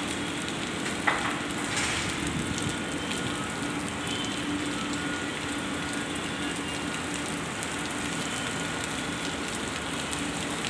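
Steady rain falling on wet paving and grass, an even hiss. There is one sharp click about a second in and a faint steady hum underneath.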